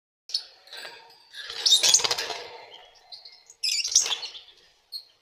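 Lovebirds chirping and chattering in harsh bursts, loudest about two seconds in and again near four seconds.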